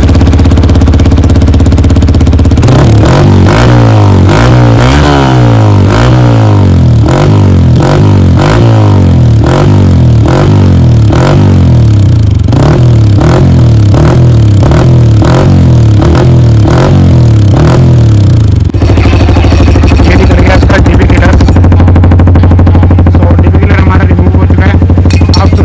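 Yamaha R15 V3's single-cylinder engine running loud through a full-system bend pipe and Akrapovic muffler with the dB killer still fitted. It is revved repeatedly in quick blips, then settles to a steady idle about three-quarters of the way through.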